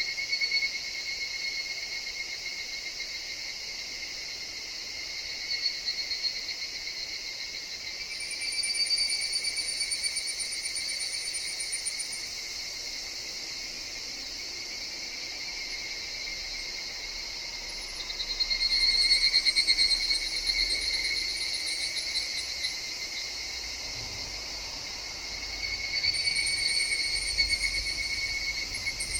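Higurashi (evening cicadas, Tanna japonensis) calling over a steady insect drone. Several trilling calls swell up and fade away over a few seconds each, the loudest about two-thirds of the way through.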